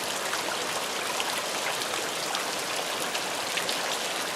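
Heavy rain falling steadily: an even hiss with faint scattered patters.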